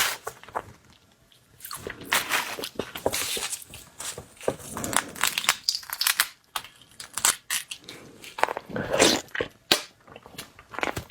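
Close-miked chewing and crunching of marinated raw shrimp, irregular sharp crunches and wet clicks with brief pauses between bites.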